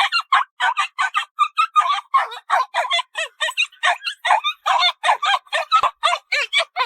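A puppy yipping in quick succession, about four to five short high-pitched yips a second.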